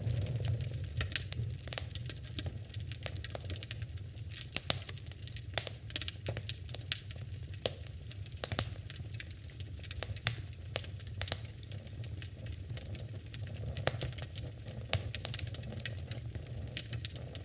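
Wood fire in a fireplace crackling, with many sharp, irregular pops over a low, steady rumble.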